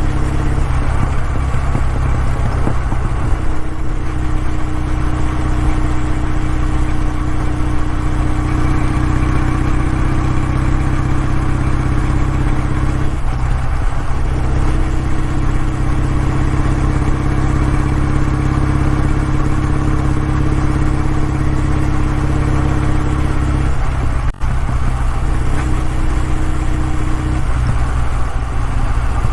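Kawasaki W650's air-cooled parallel-twin engine running through its exhaust, a steady low drone whose note changes briefly three times.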